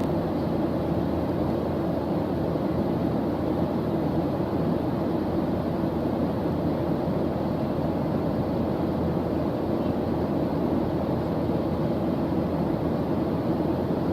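Steady white-noise background track, a dense even rushing noise weighted toward the low end, unchanging throughout.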